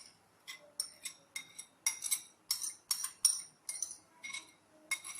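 A metal spoon clinking against a bowl, about a dozen sharp ringing taps, two to three a second, as yogurt is spooned and scraped into the chicken.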